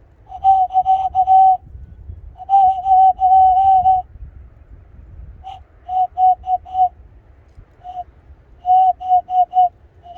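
A person's cupped-hand whistle (hand call) mimicking a bird, blowing short notes at one steady pitch in quick runs of four or five, with pauses between the runs.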